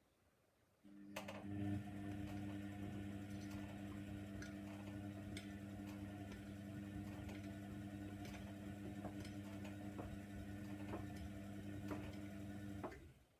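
Hoover Nextra washer dryer's motor turning the drum in a main-wash tumble: a steady hum starts about a second in and stops suddenly near the end, with light clicks and knocks from the tumbling load.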